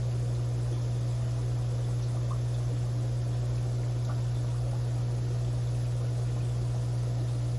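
Steady low electrical hum with a faint hiss, the continuous drone of aquarium equipment running.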